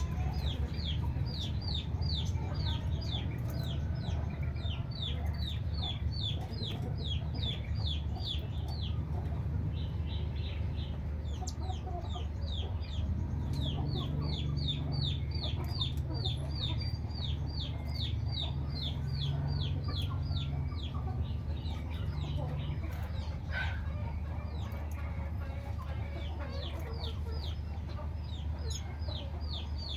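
A small bird calling in long runs of short, sharp, high chirps, about three to four a second, with a couple of brief pauses. A steady low hum runs underneath.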